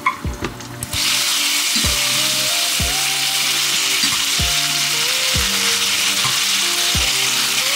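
Garlic hitting hot oil in a frying pan: a loud sizzle that starts suddenly about a second in and then holds steady. Background music with a steady beat plays under it.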